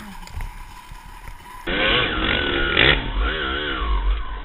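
Dirt bike engine revving up and down unevenly, starting suddenly about a second and a half in after a quieter stretch.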